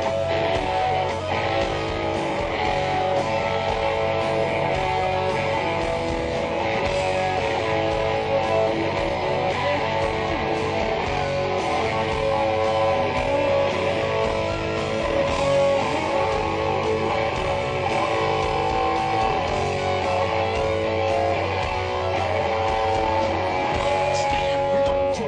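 Live hard rock band playing a guitar-led instrumental passage, electric guitars and drums at full volume without vocals.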